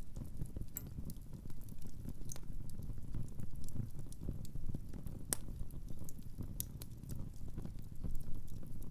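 Wood fire burning in a fireplace: a steady low rumble with irregular crackles and pops from the burning firewood, one sharper pop a little past halfway.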